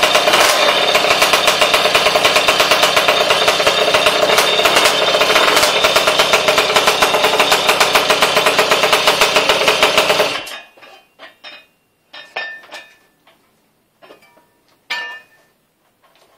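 Tomos DMP70 Sprinter engine running steadily with a fast even beat, then shut off about ten seconds in. A few light clicks and knocks follow.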